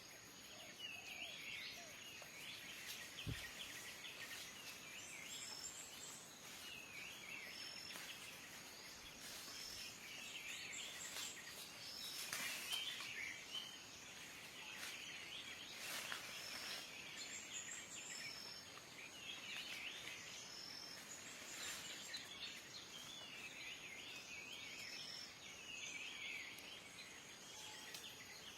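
Faint birdsong: birds chirping in short repeated bursts, with a short high note recurring about every one and a half seconds.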